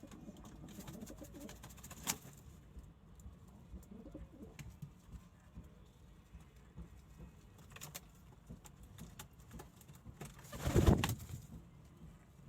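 Domestic pigeons cooing in low murmurs, with scattered light clicks and a short, loud rustling thump near the end.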